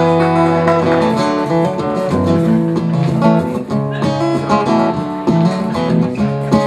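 Acoustic guitar playing picked chords, the notes ringing on and changing every half second or so.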